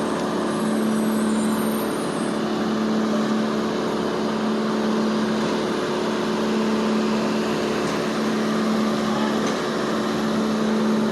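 An engine running steadily at an unchanging speed, a constant droning hum.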